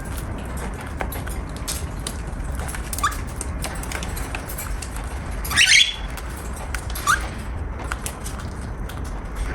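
Cockatiel giving three short rising chirps, the loudest about halfway through. Scattered light clicks and a steady low hum sit underneath.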